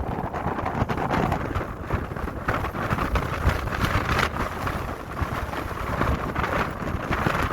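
Strong gusting wind buffeting the microphone in a blizzard: a continuous rushing with low rumbling thumps as gusts hit.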